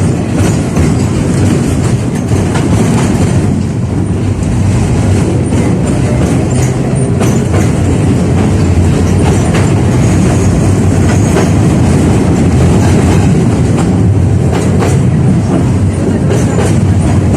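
71-605A (KTM-5A) tram running along the track, heard from inside the car: a steady low rumble of wheels and running gear, with scattered sharp clacks as the wheels cross rail joints.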